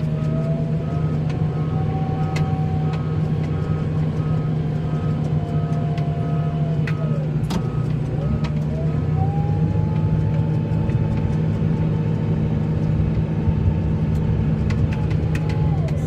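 A snowplowing vehicle's engine running steadily under load, with a whine that drops about seven seconds in and climbs back up about two seconds later as the revs change. Scattered light clicks and knocks come through.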